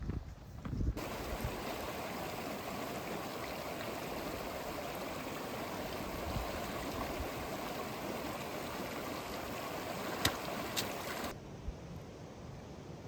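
Mountain stream running steadily, an even rush of water that starts abruptly about a second in and cuts off abruptly near the end, with two brief clicks shortly before it stops.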